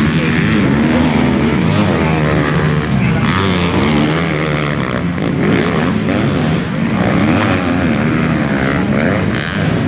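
Several motocross bike engines revving up and down together, their pitch rising and falling constantly as the riders work the throttle around the track.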